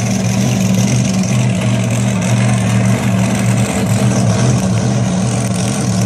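A large engine running steadily with an even, low hum.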